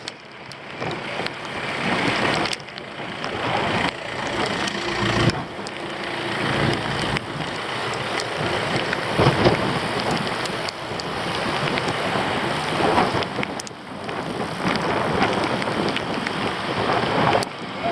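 Wind buffeting the microphone, a rough rushing noise that swells and dips, with a few faint knocks.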